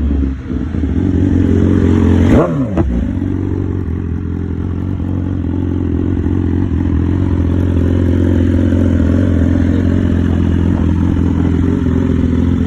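BMW S1000RR inline-four engine idling through an Arrow aftermarket exhaust, with one quick throttle blip about two seconds in that sends the revs up and straight back down to a steady idle.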